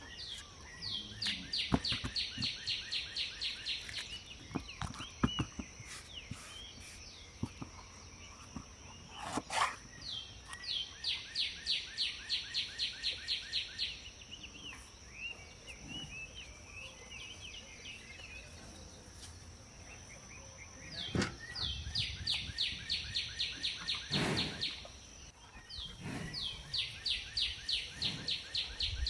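A songbird singing the same phrase four times: a rapid, even series of short high notes lasting about three seconds each time. Under it runs a steady high insect drone.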